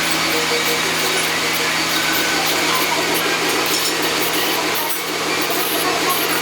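Electric power tool running steadily, with a brief dip about five seconds in.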